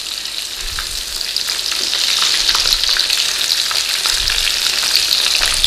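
Breaded chicken breasts shallow-frying in hot oil in a pan: a steady sizzle with scattered crackles. It grows louder about two seconds in as the pieces are lifted and turned with forks, with a couple of soft knocks from the handling.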